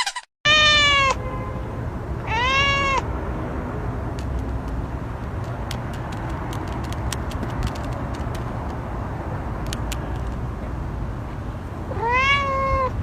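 A cat meowing three times, each meow rising then falling in pitch: two in the first three seconds and one near the end, over a steady low rumble.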